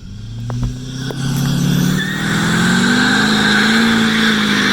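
A pickup truck's V8 engine revs up over about two seconds and then holds at high revs in a burnout, with the hiss of spinning tires.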